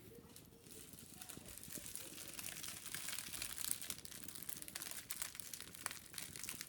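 Dry woven wicker being scratched and rubbed during cleaning: a dense, continuous crinkling of many fine crackles and scratches, a little louder around the middle.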